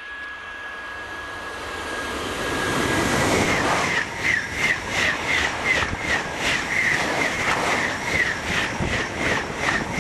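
A TGV high-speed train approaches with a rising rush and a faint steady high whine, then passes close at speed from about four seconds in, with quick even beats, about three a second, as each bogie goes by.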